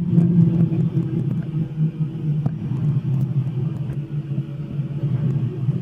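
Cabri G2 helicopter's rotor and drivetrain winding down after shutdown with the rotor brake on. It is a steady low hum, picked up through the headset intercom.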